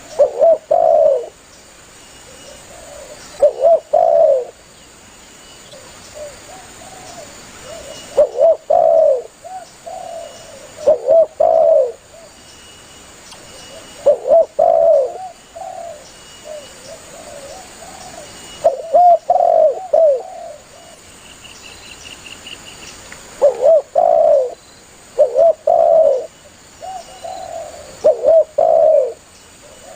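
Spotted dove (tekukur) cooing: loud groups of two or three coos repeated every two to three seconds, with quieter coos in between.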